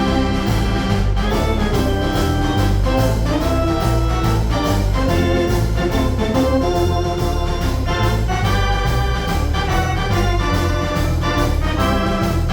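Decap 105-key dance organ with a Hammond L122 playing a tune: sustained organ chords over a walking bass line and a steady beat.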